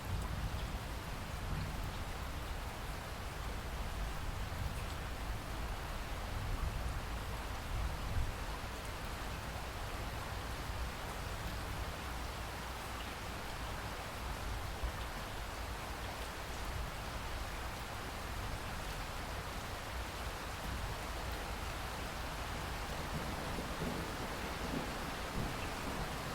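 Steady rain falling, an even hiss with a low rumble underneath that does not let up.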